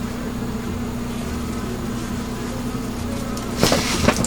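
A steady low mechanical hum, with a short noisy burst about three and a half seconds in.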